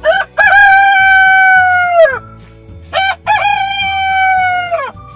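Rooster crowing twice, cock-a-doodle-doo: each crow is a short first note followed by a long held note that drops in pitch at the end.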